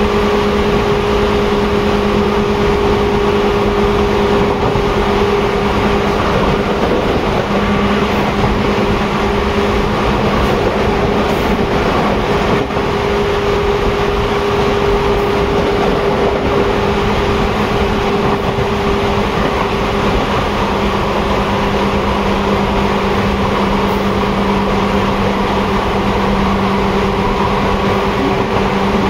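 Seibu 2000 series electric commuter train running at a steady pace, heard from inside the car: continuous rumble and wheel-on-rail noise with a constant low hum and a second steady tone above it.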